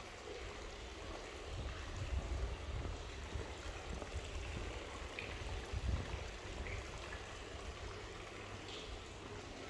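Steady outdoor street ambience: an even hiss over a low rumble that swells and fades, with a few faint brief sounds.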